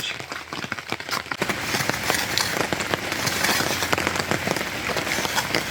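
Heavy rain falling, a dense patter of many drop hits that grows fuller about a second and a half in.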